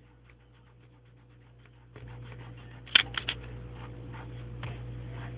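Drawing strokes scratching on paper in a quick, irregular rhythm, fainter at first and louder from about two seconds in. About three seconds in come three sharp taps, and a low steady hum lies underneath.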